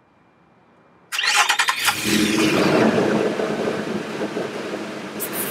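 A 2012 Nissan Xterra's 4.0-litre V6 being started: about a second in the starter cranks briefly, the engine catches and then runs at a fast idle that eases slightly.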